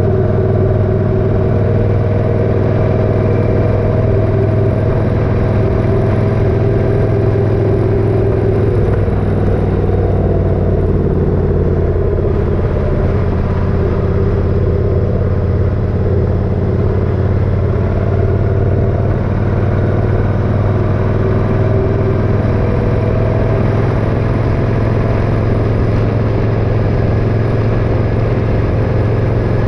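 Motorcycle engine running steadily on the move, its pitch easing down a little about a third of the way through, with road noise.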